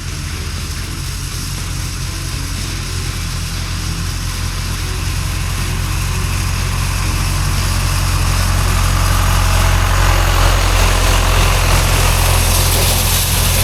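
Farm tractor engine running steadily, getting gradually louder through the middle of the stretch.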